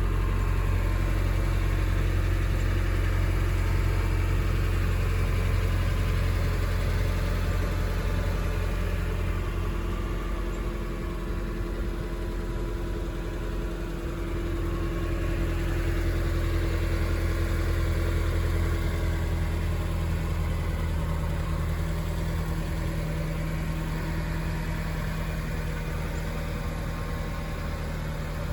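A 2000 Mazda MX-5 Miata's 1.8-litre four-cylinder engine idling steadily after a cold start. It fades a little about halfway through, then comes back up.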